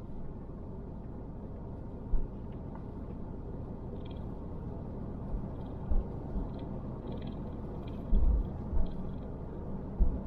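Car driving slowly, heard from inside the cabin: a steady low rumble of engine and road noise, with a few short low thumps, the loudest about 8 seconds in.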